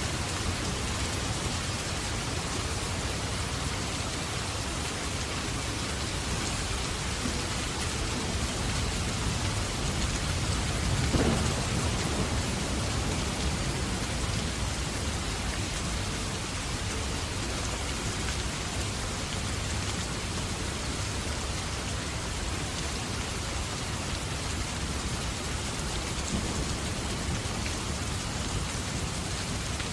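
Steady rain falling on a surface, an even hiss with no let-up. A low rumble swells and fades about eleven seconds in.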